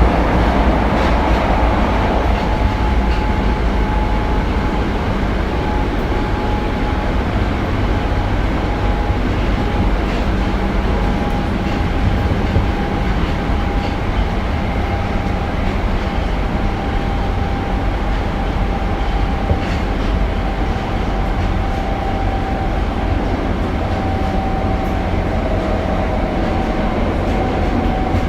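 Tokyo Metro Marunouchi Line 02 series subway train running between stations, a steady rumble of wheels and motors under a thin whine that slowly falls in pitch.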